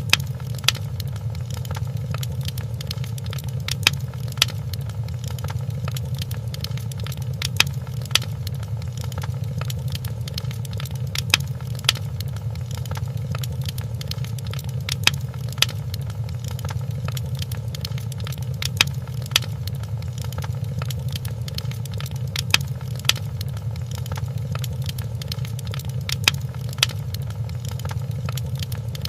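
Wood fire in a fireplace crackling, with irregular sharp pops every second or so over a steady low rumble.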